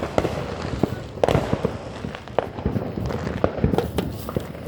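Fireworks going off: a rapid, irregular string of sharp bangs and crackles.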